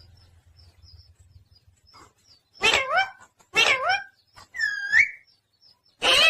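Pet parrot calling: a few short, loud, bark-like squawks and one clear whistle that rises then falls, with pauses between.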